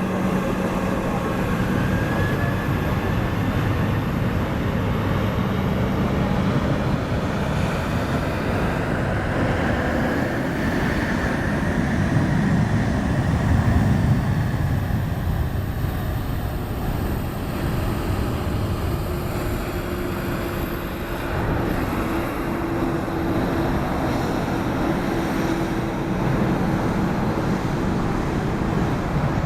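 Jet airliner engines running, a steady rush with a low hum and a high whine, swelling about halfway through.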